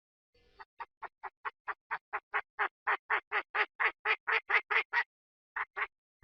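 Chinese francolin calling: a fast series of about twenty short, harsh notes, about four to five a second, growing louder. The series breaks off briefly near the end, then a few more notes follow.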